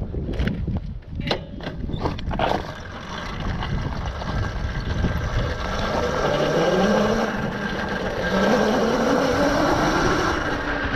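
Electric dirt bike setting off on a rocky trail: a few knocks and rattles at first, then the motor's whine climbing in pitch as it gathers speed, over a steady rushing noise.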